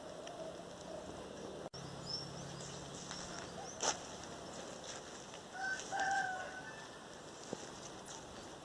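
A rooster crows once, about two-thirds of the way in, with small birds chirping now and then.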